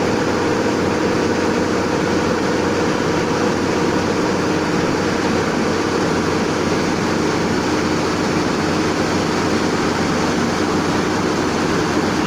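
Rice combine harvester running steadily: an even engine and machinery hum with a few held tones, no change in pace.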